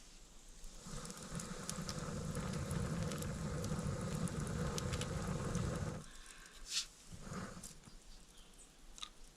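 A person blowing one long steady breath onto a dying campfire to revive it, lasting about five seconds, followed by a sharp snap.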